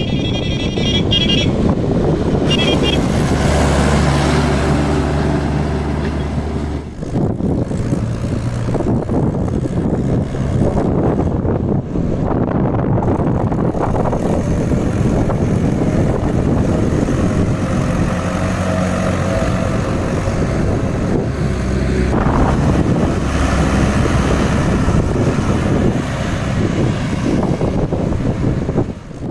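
Diesel tractor engines running under load on a highway, with a steady low engine sound and road and traffic noise.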